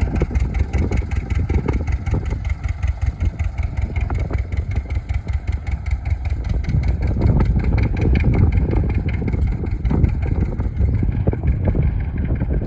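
An engine running steadily with a fast, even exhaust beat.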